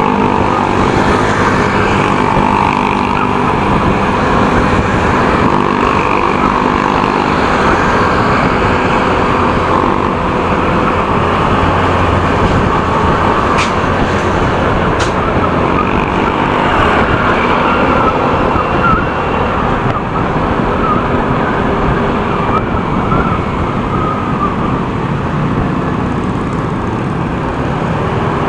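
Motorcycle on the move in road traffic: a steady mix of engine, wind and traffic noise, with a faint wavering tone in the middle stretch that may be a distant siren.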